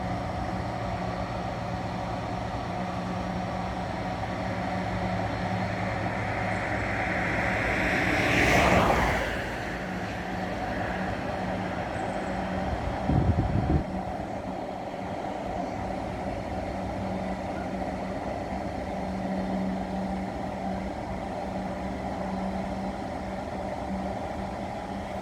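Diesel-hauled freight train passing: a steady low engine hum and rolling noise that swells to a peak about eight seconds in and then falls away, with a short louder clatter around thirteen seconds.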